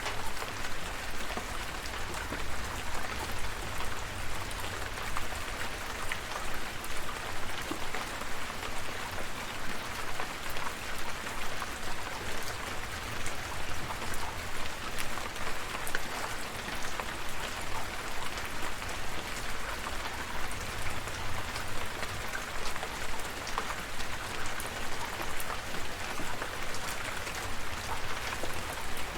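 Steady rain falling, with many individual drop hits heard through the hiss and a low rumble underneath. The loudness swells and falls about twice a second.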